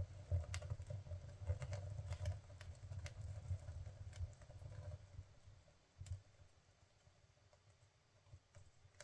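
Freshly lit dry orange peel burning in a wood stove, crackling with irregular small pops over a low rumble of flame. The crackling thins out after about five seconds to a few faint pops.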